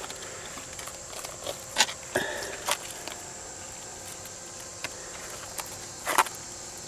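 A few scattered knocks and scrapes of quartz and clay being handled while digging out a quartz vein by hand, one knock ringing briefly.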